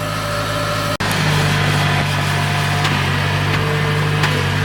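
Kubota DC-70G PRO combine harvester's diesel engine running steadily with a low drone. The sound breaks off for an instant about a second in.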